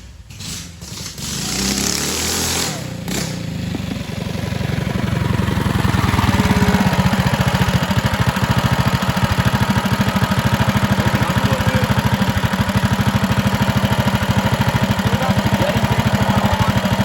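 Mini bike's small single-cylinder engine running on an open, unbaffled header: uneven and building for the first few seconds, then settling about six seconds in into a loud, steady run of rapid, even firing pulses.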